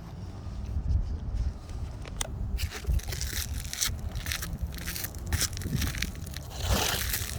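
New asphalt shingle being slid into place under the course above, its gritty surface scraping and crackling against the neighbouring shingles in a run of rough strokes from about two and a half seconds in.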